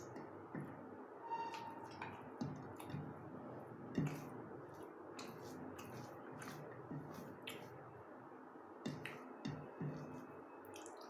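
Wet eating sounds of someone eating egg curry and rice: irregular squishes, smacks and small clicks, the sharpest click about four seconds in.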